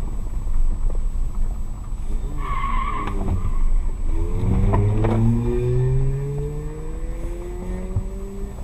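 Car road noise with a brief tyre squeal about two and a half seconds in, then an engine accelerating, its pitch rising steadily for about four seconds.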